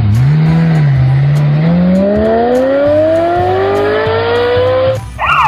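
Car engine sound effect revving up, its pitch wavering low at first and then rising steadily for about four seconds as the speeding SUV accelerates. Near the end it cuts off and a police siren starts wailing.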